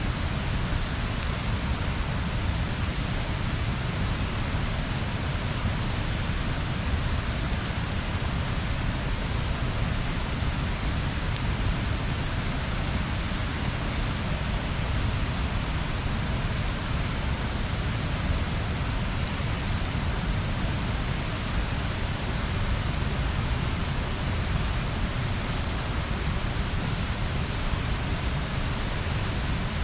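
Bonfire burning: a steady rushing hiss of flames, with a few faint crackles.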